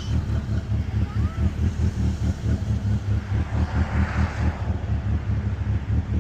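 The 4G63 turbo four-cylinder of a 1995 Mitsubishi Eclipse GSX running at a steady low speed, heard from inside the car, with a low rumble that pulses unevenly: the lumpy "chop".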